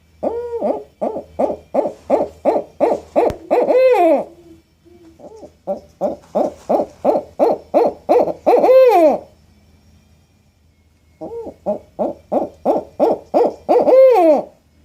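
An owl calling in three bouts. Each bout is a quick run of short hoots, about four a second, ending in one longer, drawn-out note.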